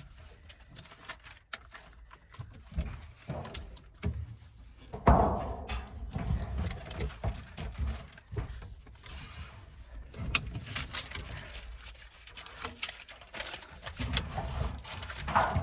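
Scattered knocks, clicks and rattles of parts and tools being handled, with a louder knock about five seconds in and a denser run of clicking in the last five seconds.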